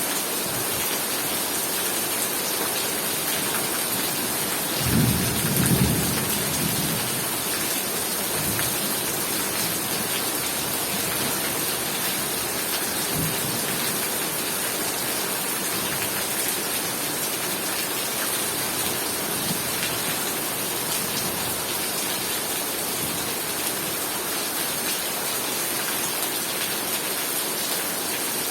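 Heavy rain falling steadily in a thunderstorm, with a rumble of thunder about five seconds in that lasts a couple of seconds, and a few fainter low rumbles later.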